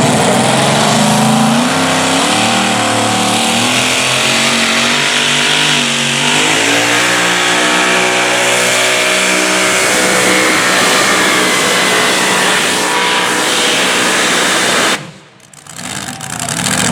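Super modified four-wheel-drive pulling truck's engine running loud at high revs under load, its pitch sliding lower partway through. The sound drops out abruptly for about a second near the end, then returns.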